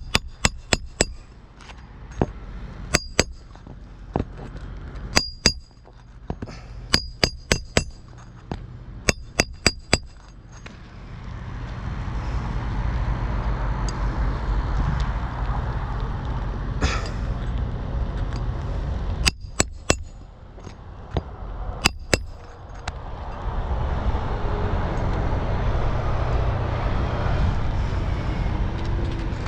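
Hammer driving roofing nails into asphalt shingles: groups of quick, sharp blows with a metallic ring, mostly in the first ten seconds and again a few times later. Between the groups there are long stretches of steady rushing noise.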